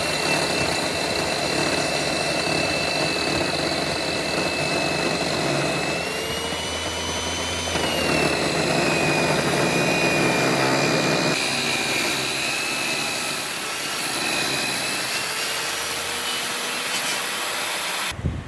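An electric power tool running steadily with a high-pitched whine that wavers slightly in pitch as it works the wood, stopping abruptly near the end.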